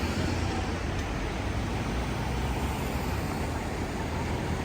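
Steady city street traffic: a continuous low rumble of passing vehicles under an even wash of road noise.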